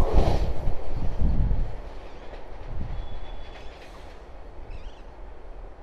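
Vande Bharat Express train passing close at high speed. Its loud rail and wheel noise fades away about two seconds in, leaving a low rumble.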